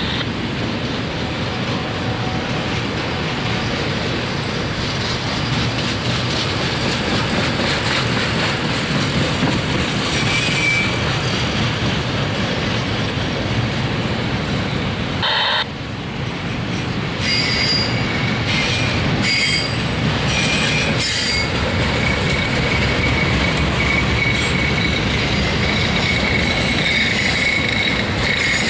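Freight train of autorack cars rolling past: a steady rumble of steel wheels on rail. From about halfway, thin high wheel squeals come and go, holding steadier near the end.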